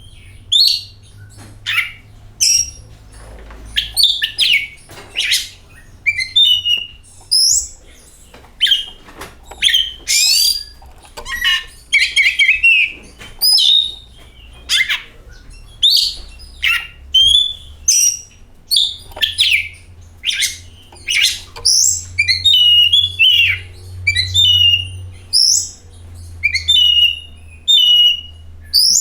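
Oriental magpie-robin singing a loud, varied song of short whistled notes, trills and chirps in quick succession, over a steady low hum.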